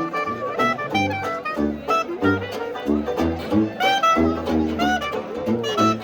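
Traditional New Orleans jazz band playing an instrumental chorus between sung verses: horns carry the melody over tuba bass notes on a steady beat.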